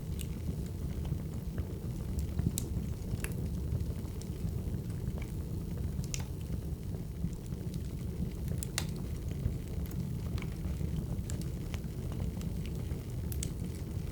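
Wood fire crackling: a steady low rumble with sharp pops and snaps at irregular moments.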